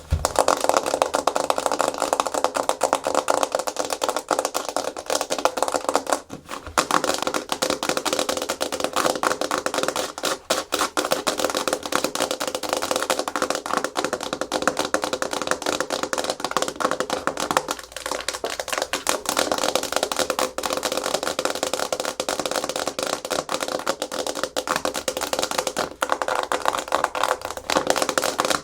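Natural fingernails tapping and scratching fast and hard on a hard plastic surface: a dense, rapid clatter of clicks that stops briefly twice.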